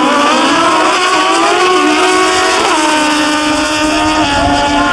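Drag racing motorcycle engine running hard at high revs, its pitch dropping sharply twice, about two and a half seconds in and again near the end, as it shifts gears down the track.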